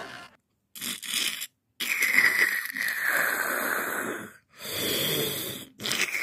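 A sleeping cartoon vacuum-cleaner character snoring: a series of wheezy, breathy snores with short gaps between them, one long one in the middle.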